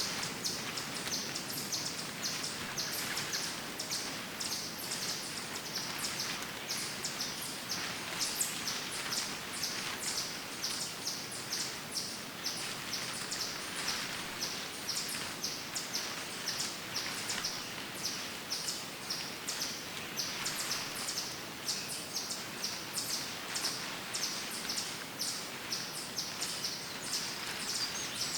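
Woodland ambience: birds chirping over a steady background hiss, with short high chirps repeating about twice a second.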